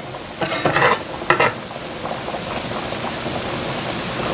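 A utensil scrapes across the bottom of a pan twice in the first second and a half, loosening browned bits into the Marsala sauce. A steady sizzle and bubble of the sauce coming to a simmer runs underneath.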